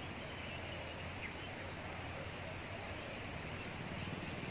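Steady, unbroken high-pitched drone of insects, with a faint short bird chirp about a second in.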